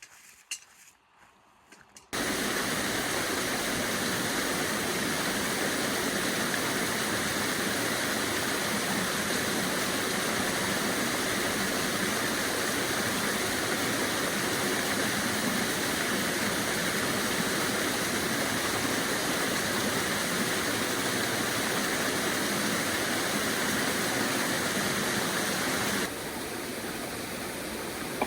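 River water flowing, a steady rush that starts abruptly about two seconds in after a few faint clicks, and drops a little in level near the end.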